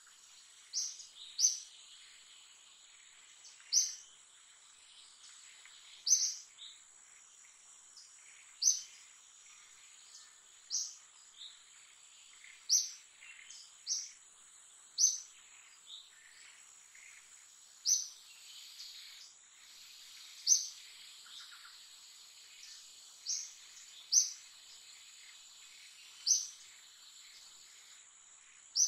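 A bird's sharp, high chirps, repeated every one to three seconds, over a steady high-pitched insect drone.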